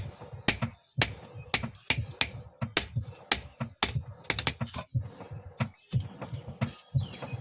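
Hammer striking steel on an anvil at a steady rhythm, about two blows a second: a file being forged by hand.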